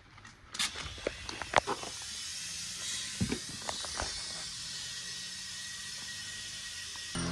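Steady hiss of rushing air, with a few sharp clicks and knocks over it, as air is forced into a truck tire to seat its bead.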